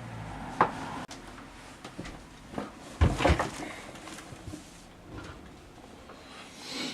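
Handling noise: a sharp knock, then a louder cluster of knocks and clatters about three seconds in, with a few lighter bumps, like things being moved and set down while someone searches.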